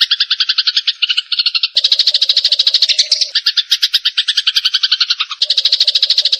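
Eurasian tree sparrows chattering in a fight, a fast unbroken run of harsh chirps at about nine a second, changing abruptly twice as if spliced from separate takes.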